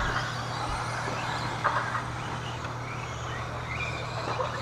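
RC stadium trucks racing: faint whining motors rising and falling in pitch over a steady low hum.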